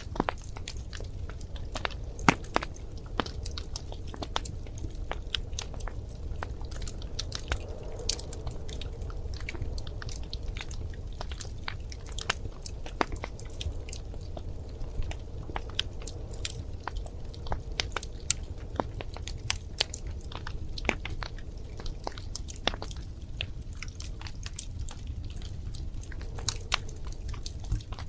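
Wood fire burning in a fireplace: a steady low rumble of the flames with frequent irregular crackles and sharp pops of burning logs.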